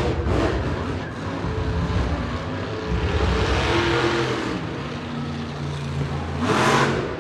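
Monster truck engine running and revving, its pitch shifting up and down, with a louder burst of noise near the end.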